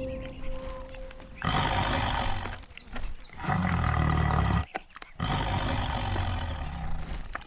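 Lions snarling and roaring in three loud bouts of a second or two each: lions squabbling over a kill.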